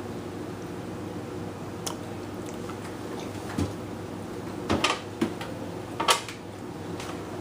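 A baby handling a refrigerator: a few scattered knocks and clatters, the loudest in a cluster about five seconds in and another about six seconds in, over a steady low hum.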